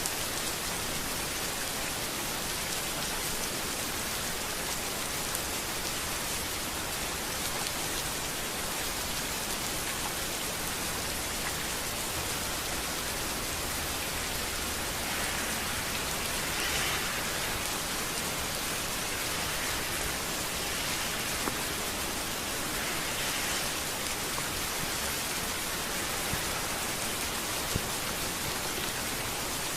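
Steady rain falling on a street, a dense even hiss with scattered drop ticks. It swells briefly a few times in the second half.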